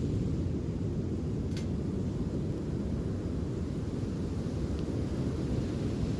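Steady low rumble of wind and surf at the beach, with a beach bonfire giving one sharp crackle about one and a half seconds in and a fainter tick later.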